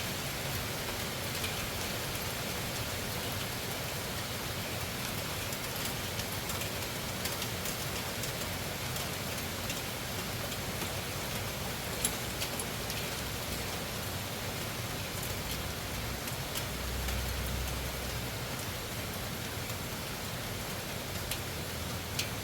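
Loud rain falling steadily, with individual drops ticking sharply here and there. A brief low rumble comes about three-quarters of the way through.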